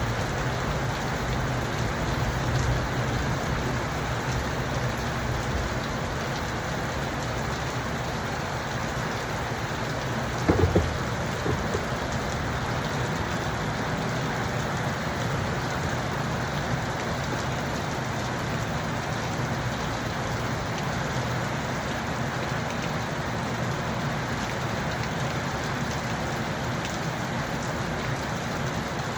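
Steady, even rain falling, with a short cluster of sharp thuds about ten seconds in.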